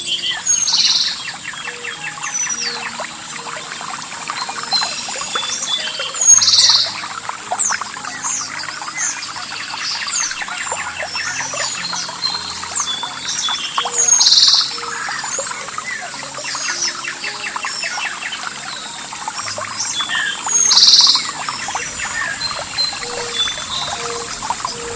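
Several songbirds chirping and whistling, one bird repeating a loud short phrase about every six or seven seconds, over trickling water. Soft, sustained background music notes sit low underneath.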